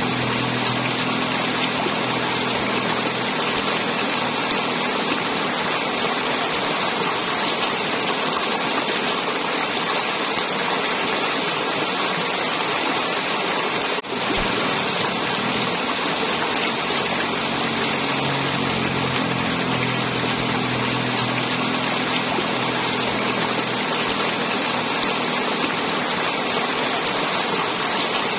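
River water flowing and gurgling, a steady rushing noise with no break, apart from a momentary dip about halfway through.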